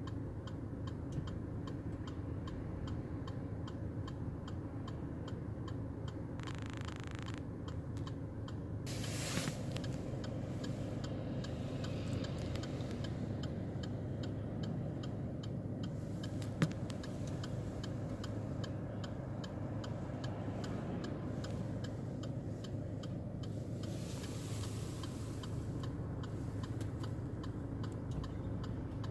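Rapid, even ticking over a steady low rumble, with one sharper click partway through.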